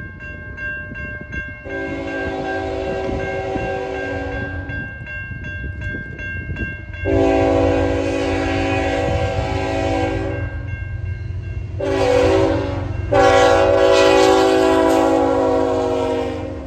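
A CN freight locomotive's multi-chime air horn sounding the grade-crossing signal: two long blasts, a short one, then a final long blast. The crossing's warning bell rings steadily between the blasts over the low rumble of the approaching train.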